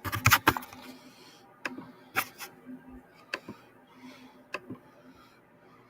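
Sharp clicks and taps: a quick cluster of loud ones at the start, then single clicks about every second, over a faint steady hum.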